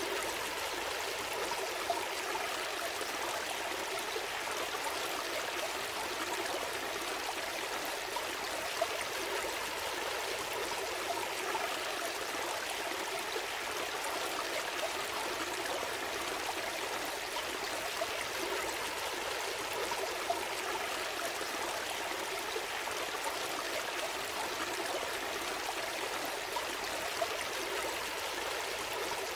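Gentle stream flowing steadily, a continuous babbling rush of water with the odd brief, sharper splash.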